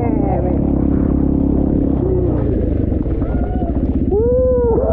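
Dirt bike engine running steadily at low revs, with an even pulsing beat in the last second. A person's drawn-out voice sounds over it near the end.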